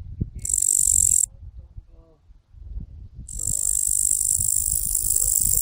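A locust (grasshopper) stridulating: a high, hissing chirr that sounds briefly early on and then starts again a little past halfway and carries on.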